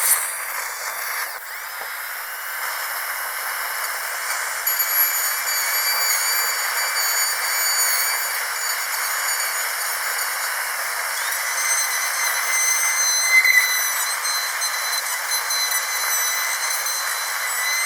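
Dentist's high-speed drill running steadily: a high-pitched whine of several tones over a hiss, with a brief sharp burst right at the start.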